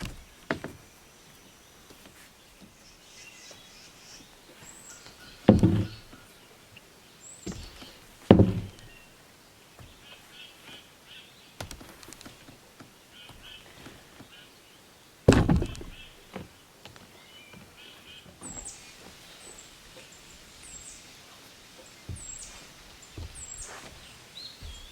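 Heavy thuds: three loud ones several seconds apart and a smaller knock at the start, like heavy material being dropped or set down on the structure. Small birds chirp repeatedly near the end.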